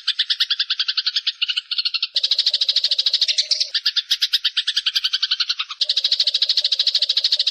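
Eurasian tree sparrows chattering in a fast, unbroken run of chirps, about ten a second, with several birds or layers overlapping. The mix changes abruptly about two seconds in and again near six seconds.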